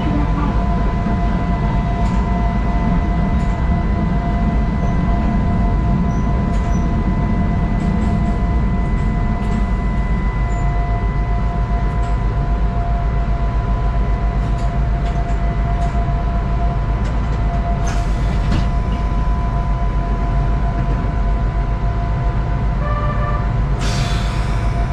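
Narrow-gauge electric train heard from inside the driver's cab, its wheel and running rumble easing off about ten seconds in as it draws to a stop, with a steady high tone underneath. Near the end a short pitched tone sounds, then a brief burst of hiss.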